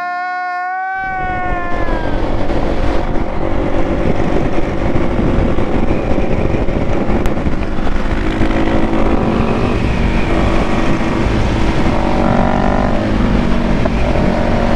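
Vehicle engine running under way with loud, steady road and wind rush, which comes in about a second in. At the start, a high whine falls slightly in pitch and fades out.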